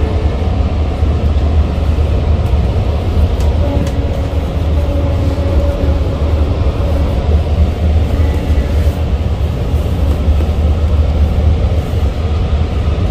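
Steady low rumble inside a moving Long Island Rail Road passenger car: the noise of the diesel-hauled train running along the track.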